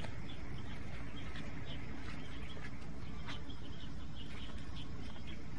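Outdoor ambience: many short, high chirps scattered irregularly over a steady low rumble.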